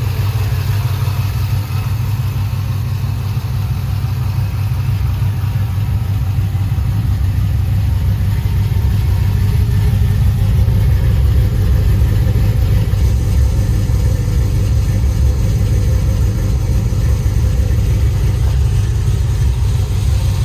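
Freshly rebuilt 6.0-litre LS V8 idling steadily, now running on all eight cylinders with new camshaft and lifters. The idle is smooth, though the tune still has a couple of bugs to work out.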